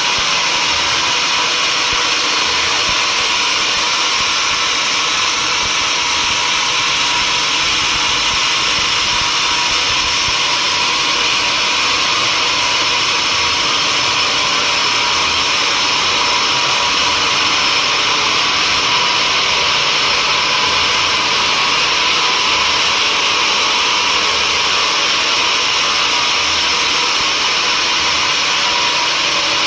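Sawmill saw running steadily through mahogany: a constant high hiss and whine that does not change.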